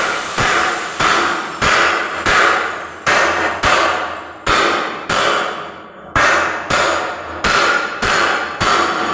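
Hammer blows on a metal part of an elevator being installed, struck about once every 0.7 s, about a dozen times, each blow ringing briefly. There is a slightly longer pause near the middle.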